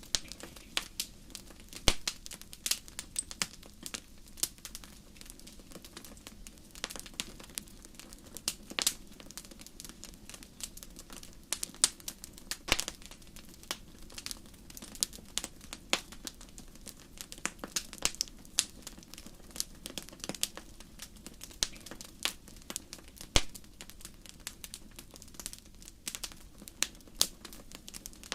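Wood fire in a fireplace crackling: a dense, irregular stream of sharp pops and snaps over a low, steady hiss of flame.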